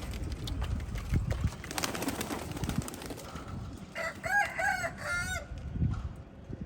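A rooster crows once, a cock-a-doodle-doo of several syllables about four seconds in, over low pigeon cooing.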